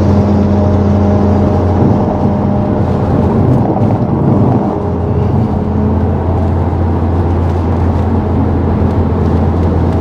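Tuned Audi RS3 8P's 2.5-litre TFSI inline five-cylinder running at a steady pace, heard from inside the car as an even engine drone over road noise, easing slightly about halfway through.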